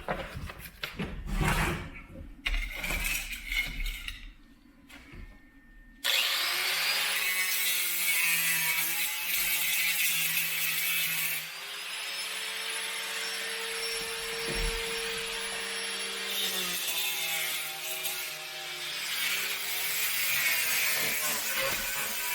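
Irregular scraping and rubbing strokes, then an angle grinder starts suddenly about six seconds in and runs steadily against the steel bus floor, its pitch shifting a couple of times as the load changes. It is grinding off screws and nails and wire-brushing rust.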